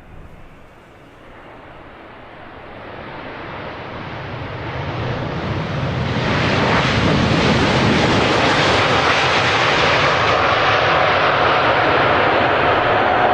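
Airbus A380 jet airliner's four turbofan engines on landing, the jet noise growing steadily louder for several seconds as the aircraft approaches, then holding loud. Near the end a whine comes through, sliding slightly down in pitch.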